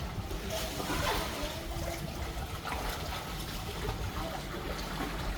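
Water splashing and sloshing, with a few brief louder splashes, and faint children's voices in the background.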